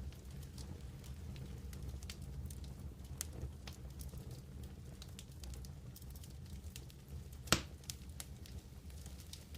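Wood campfire burning with a low rumble of flames and scattered crackles and pops, one louder pop near the end.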